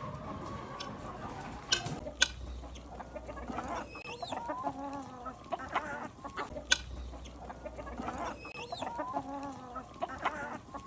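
Farm fowl clucking, in two bouts of calls, with a few sharp clicks in between.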